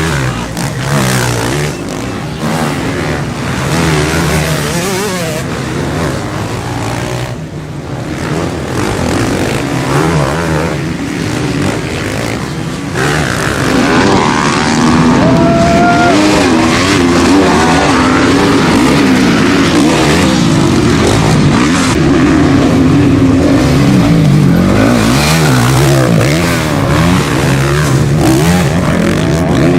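Several motocross bikes' engines revving hard and overlapping as they race, their pitch rising and falling with the throttle. It gets louder from about halfway through.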